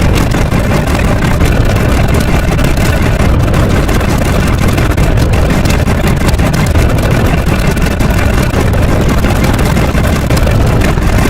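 A very loud, steady, engine-like rumble, heaviest in the low end and unbroken throughout.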